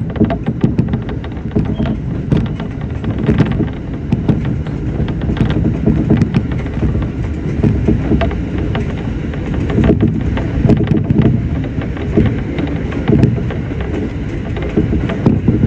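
Electric commuter train running, heard from inside the front of the car: a steady low rumble with frequent short clicks and rattles.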